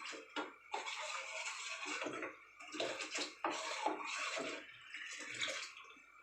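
A spoon stirring thin ragi porridge in a pot on the stove, with irregular sloshing and scraping strokes, stirred to keep the flour from forming lumps as it comes to the boil.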